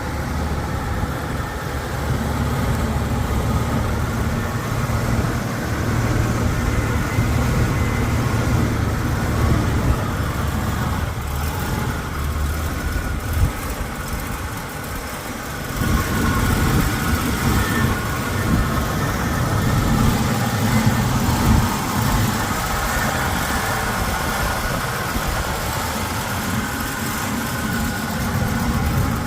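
1977 Pontiac Grand Prix SJ's 350 V8 running steadily. The engine eases off briefly about halfway through and picks up again.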